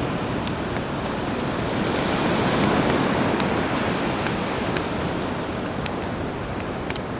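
Sea waves washing onto a shore, one surge swelling about two seconds in and slowly ebbing, with the scattered crackles and pops of a campfire over the top.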